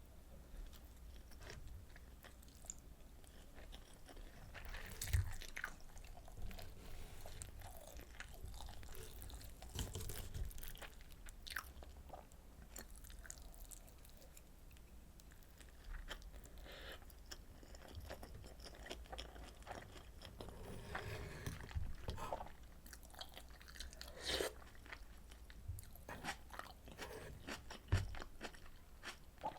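Close-miked eating sounds from a meal of rolled omelet and pork kimchi stew: steady chewing and biting with crunching. Short sharp clicks run throughout, the loudest about five seconds in and near the end.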